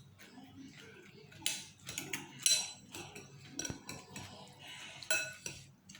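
Eating utensils clinking against a bowl of noodle soup: a series of sharp clinks, each with a brief ring.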